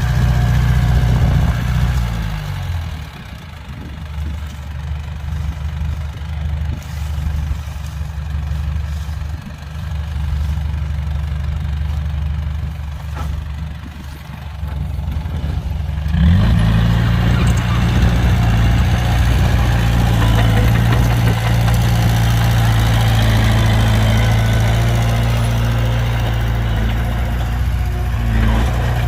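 An engine running steadily with a low hum. About two to three seconds in its pitch falls and it gets quieter; about sixteen seconds in it rises suddenly again and holds steady.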